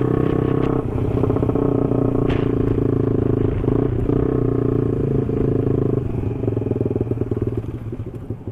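Honda Sonic 150R motorcycle engine running at steady high revs while riding, with a brief dip about a second in. From about six seconds the engine note drops and gets quieter as the bike slows.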